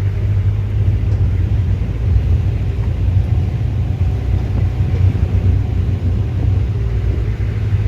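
A vehicle engine running steadily: a continuous low rumble with no change in pitch.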